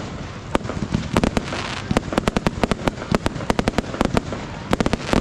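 Fireworks going off: a rapid string of sharp bangs and cracks, often several a second, over a steady low rumble.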